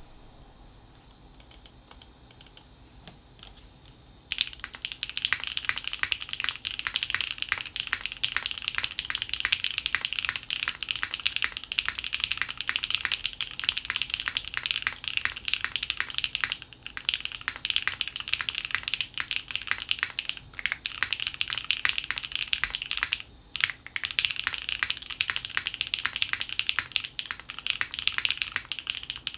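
Custom JJW Moment mechanical keyboard with lubed Gateron Pure Sky switches, a polypropylene plate and GMK keycaps, being typed on quickly and continuously. The typing starts about four seconds in after a faint start and pauses briefly twice later on.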